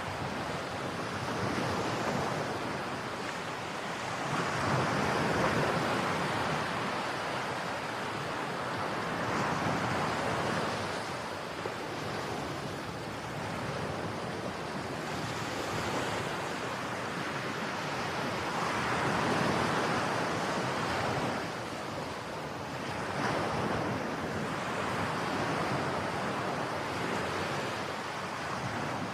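Ocean waves breaking and washing up a beach, a steady surf hiss that swells and eases every few seconds, with some wind on the microphone.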